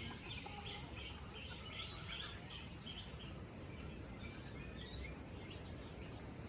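Many small birds chirping and twittering in quick, overlapping calls over steady background noise.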